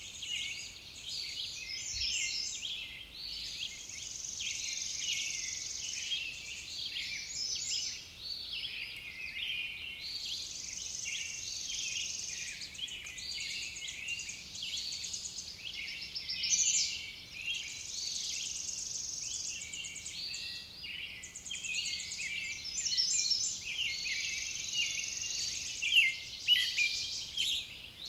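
A dense chorus of many small birds chirping and calling over one another, with stretches of a steady high insect buzz coming and going. A few louder, sharper chirps stand out near the end.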